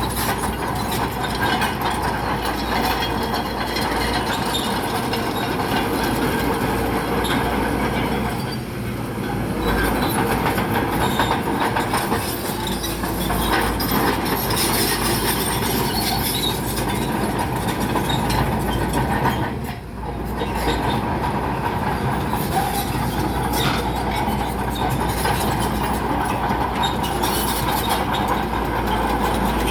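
Bulldozer diesel engine running under load with its steel crawler tracks clanking and squealing continuously, the sound dipping briefly twice.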